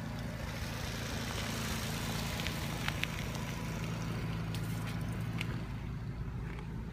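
Steady engine hum with a hiss of noise over it that swells and fades.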